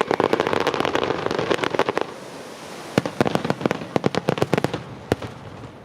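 Fireworks display by Pirotecnia Martí: rapid sharp crackling reports. There is a dense run for about two seconds, a short lull, then a second run of cracks about three seconds in that thins out near the end.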